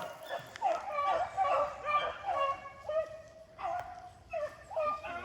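A pack of rabbit hounds baying together while running a rabbit, several voices overlapping in repeated, bending calls.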